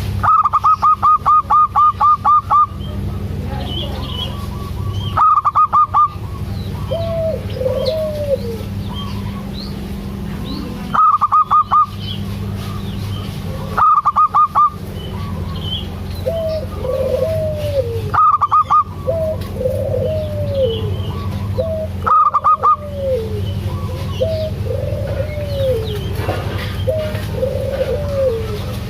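Zebra doves (perkutut) cooing: loud runs of rapid, clipped notes that come back every few seconds, with lower rolling coos between them, over a steady low hum.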